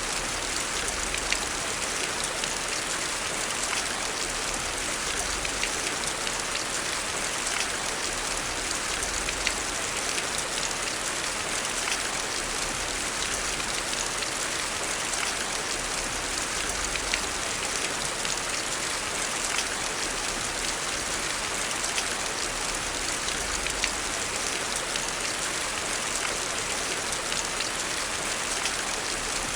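Heavy rain falling steadily: an even hiss with scattered small ticks of drops throughout.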